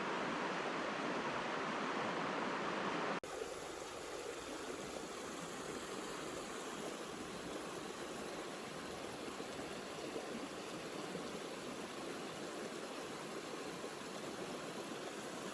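Mountain stream water rushing steadily. About three seconds in, the sound cuts abruptly to a quieter, softer rush of water.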